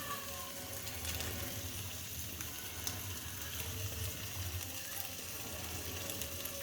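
Rice frying in oil in a hot pan: a steady sizzle with a few small pops.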